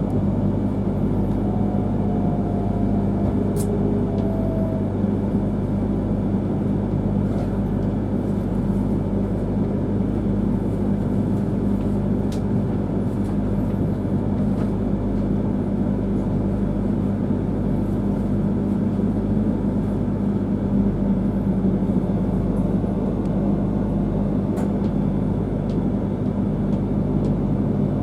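Shinkansen train standing at the platform, its onboard equipment giving a steady low electrical hum and rumble. A couple of short faint tones are heard in the first few seconds.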